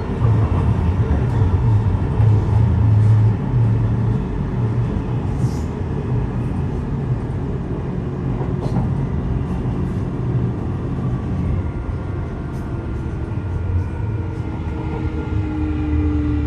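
Electric passenger train running along the track, heard from on board: a steady low rumble with scattered light clicks, and near the end a motor whine that slides down in pitch.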